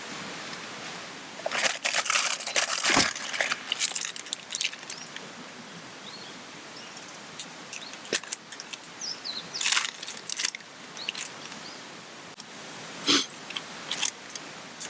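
Steady hiss of rain, broken by short runs of close clattering and rustling handling noises, three times. A few faint high bird chirps near the end.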